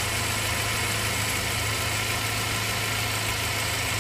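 Chevrolet S10 pickup engine idling steadily, its belt drive turning the A/C compressor during a scan-tool actuator test of the compressor relay.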